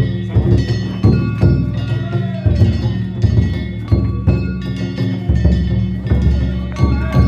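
Danjiri festival percussion: a large taiko drum and hand-struck metal gongs (kane) playing a driving rhythm, about two strikes a second, the gongs ringing on between strokes.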